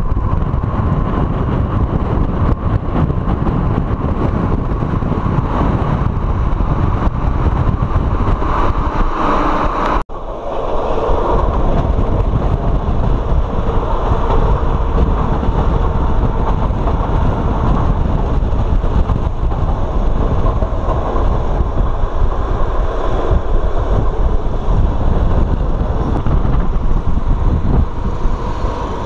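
Euskotren UT200 electric multiple unit running at speed, a steady rumble of wheels on rail with wind across a microphone held out of an open window. The sound drops out for an instant about ten seconds in, then the same running noise carries on.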